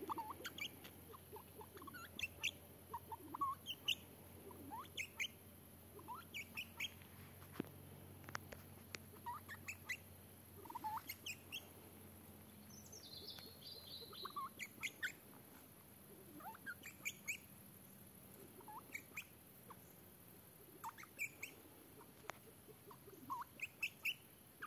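Birds chirping: short, high calls every second or two, often two or three close together, with a longer falling call about halfway through.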